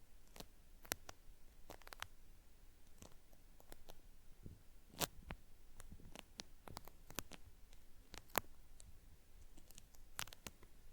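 Cotton swab working in a binaural microphone's ear, giving an ear-cleaning sound like something being peeled away: crisp, irregular crackles and clicks, quiet, with a few sharper ones standing out near the middle and end.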